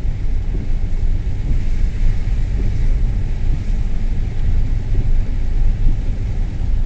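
Mercedes car driving through deep floodwater, heard from inside the car: a steady low rumble of engine and road noise.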